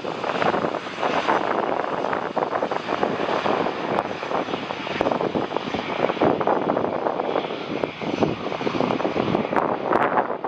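Jet airliner passing low on landing approach, its engines making a steady, loud rushing noise.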